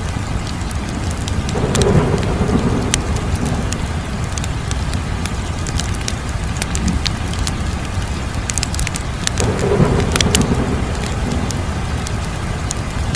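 Wood fire crackling: a steady low rumble of flames dotted with sharp pops. It swells louder twice, about two seconds in and again about ten seconds in.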